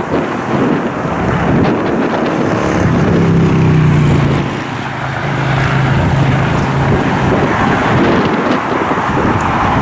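Strong wind buffeting the microphone in a steady rush. A low engine drone rises out of it a few seconds in and slowly falls in pitch before fading into the wind.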